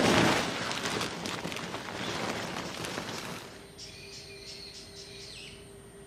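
Loud rushing noise with scattered crackles for about the first three and a half seconds, then, much quieter, small birds chirping over a faint steady hum.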